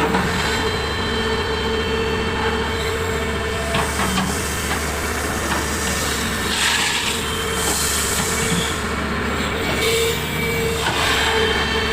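Heavy earthmoving equipment running, an excavator loading trucks: a steady diesel drone with a constant high whine on top, and two brief rushes of noise, about six and a half seconds in and again near the end.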